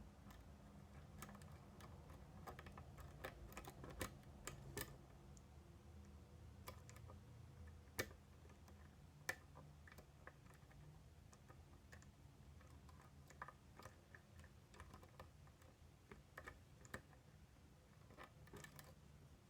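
Faint, irregular small metallic clicks of lock picks working the wafers inside a Miwa DS wafer lock, a few sharper ticks standing out among them.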